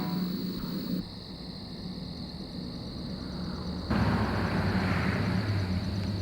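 A vehicle engine running with a steady low drone. It cuts in suddenly about four seconds in, after a few seconds of quieter background noise.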